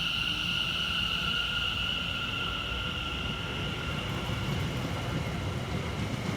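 Class 720 Aventra electric multiple unit pulling away: a steady high whine from its traction equipment over a continuous rumble of the train.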